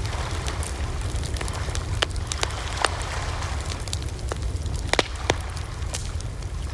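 Wood fire burning, a steady low rumble with irregular sharp crackles and pops, a few louder snaps about two, three and five seconds in.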